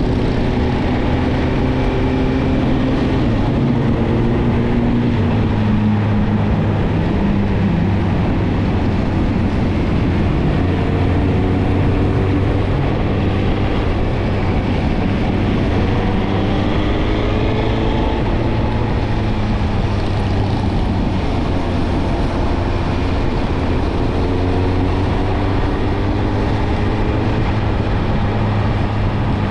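Suzuki GSX-R1000 inline-four engine through a Yoshimura Alpha exhaust, ridden under gentle throttle: the exhaust note rises slowly in pitch several times as the bike pulls through the gears, over a steady rush of wind noise.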